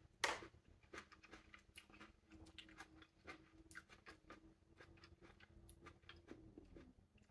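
A crisp bite into a firm green plum about a quarter second in, then faint chewing: soft clicks and smacks of the fruit being eaten.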